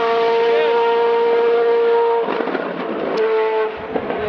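Race car engine running at high, steady revs, one sustained pitch. It drops away about two seconds in and comes back briefly near the end.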